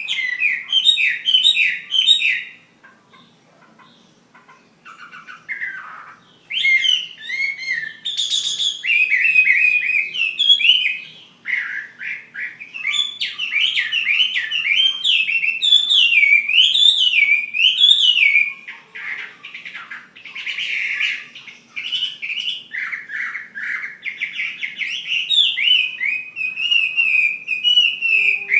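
Chinese hwamei (melodious laughingthrush) singing a fast, varied, warbling song of quick rising and falling notes. It breaks off for a few seconds shortly after the start, then sings on without a break.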